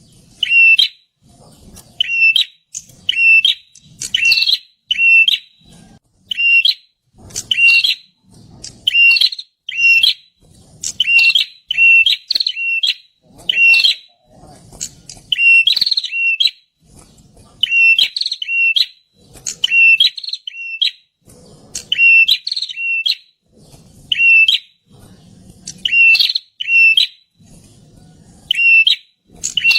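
Prinia (perenjak) calling loudly: short, sharp, high notes repeated about once a second, often in quick pairs or small clusters.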